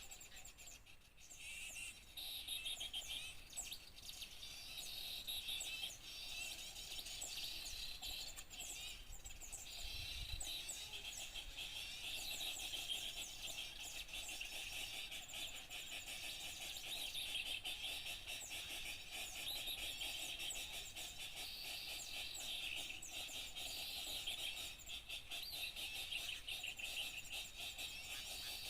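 Small songbirds chirping and calling over one another in a dense, unbroken chatter of short high notes. This is a bird-lure recording, a mix of agitated small-bird calls played to draw small birds in.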